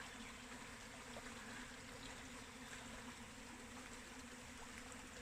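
Faint, steady hum of a honeybee swarm in flight, a low buzz under an even hiss.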